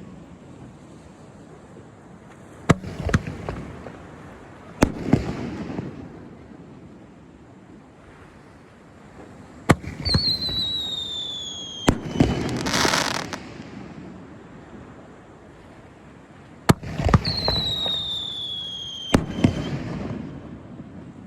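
Aerial fireworks going off: six sharp bangs, each trailed by an echoing rumble, in pairs a couple of seconds apart. Twice a shrill whistle falls slowly in pitch.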